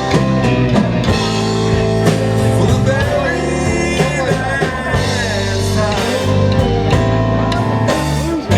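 A live band playing a blues number, with guitar and drum kit.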